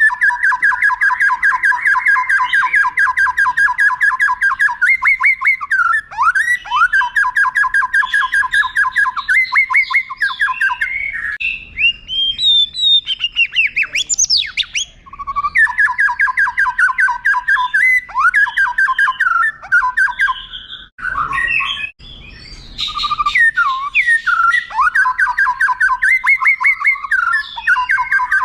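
White-rumped shama (murai batu) singing: long, rapid rolling trills that flip between a lower and a higher note, broken up by sliding whistles and short varied phrases, with a brief pause a little past the middle.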